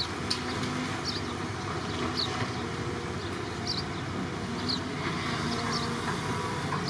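Excavator's diesel engine running steadily at a construction site. Short high chirps repeat roughly once a second over it.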